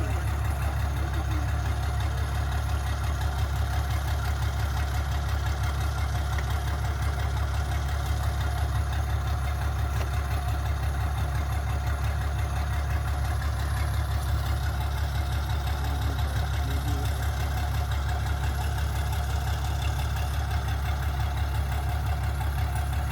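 Excavator's diesel engine running steadily at idle, a constant low rumble with a fine rapid pulse.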